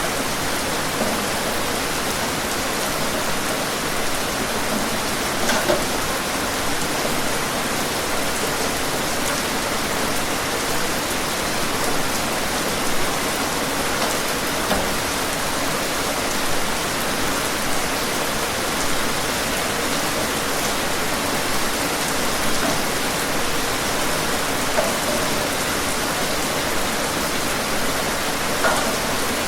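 Steady rain falling on a surface, an even hiss with scattered individual drops hitting close by.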